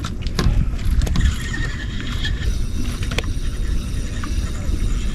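Steady low rumble of a small fishing boat on the water, with a few sharp knocks and clicks against it.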